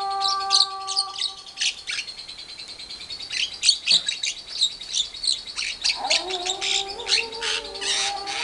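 Caged birds chattering in quick, dense runs of short high chirps: a lovebird's long chatter with a Javan myna answering. A lower steady humming tone sits under the chirps at the start and comes back about six seconds in.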